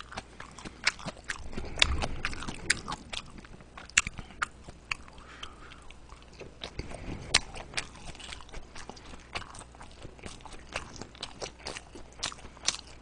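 A person chewing and biting into soft dumplings: many irregular, short, wet mouth clicks and smacks.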